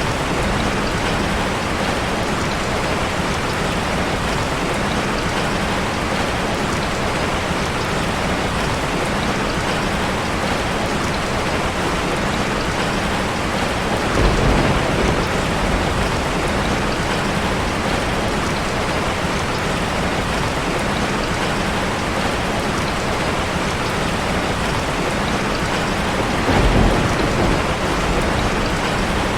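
Steady rush of cascading water from a waterfall, an even roar without pauses. Two brief low swells rise out of it, about 14 seconds and 27 seconds in.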